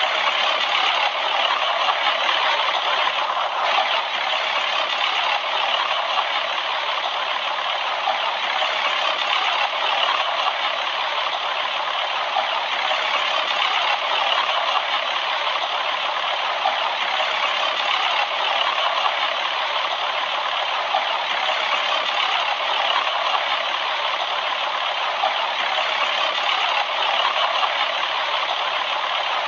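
Bryant 213BNA036 heat pump outdoor unit running through its defrost cycle, giving a steady, loud hiss.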